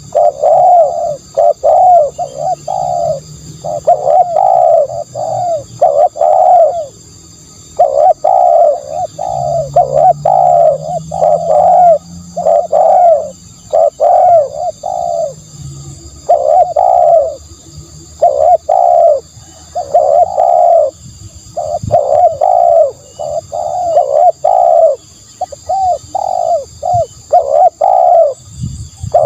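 Spotted dove cooing: short, loud coos repeated in quick runs, with brief pauses between phrases.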